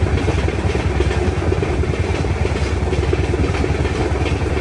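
Express passenger train running at about 100 km/h: a steady, loud rumble of wheels on rail mixed with rushing air.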